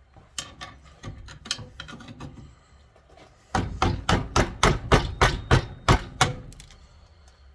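Hammer blows on an old broken screwdriver, metal on metal: a few scattered light taps, then about halfway a quick run of about ten hard strikes, some four a second.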